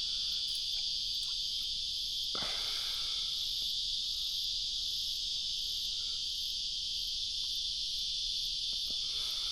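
A steady, high-pitched chorus of insects droning without a break, with a brief whoosh about two seconds in.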